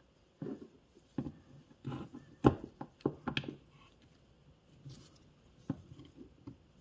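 Small metal parts of an e-bike motor being handled and taken apart by hand: a scattered series of clicks and knocks, the loudest about two and a half seconds in.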